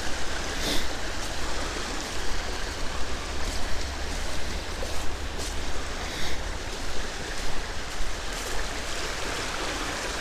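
A creek's water running steadily.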